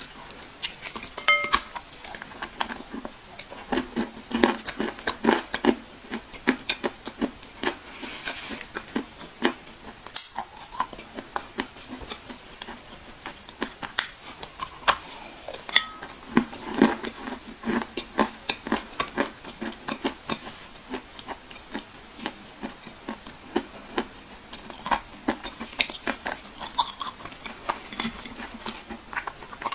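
Dry clay being crunched: a dense run of irregular sharp cracks and crumbling crackles, with no steady rhythm.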